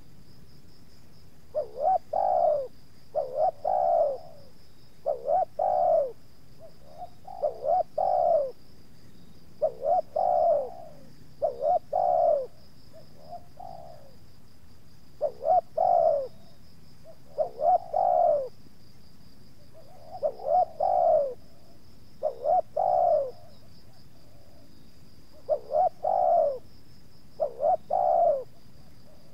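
Spotted doves cooing: short phrases of a few low coos, repeated about every two seconds, over a faint steady high buzz.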